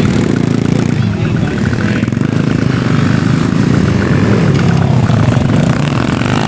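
Motorcycle engine running steadily at an even pace.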